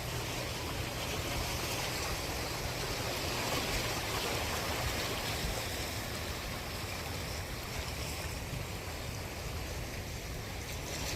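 Sea waves washing on the shore: a steady rushing noise that swells a little about four seconds in, then eases.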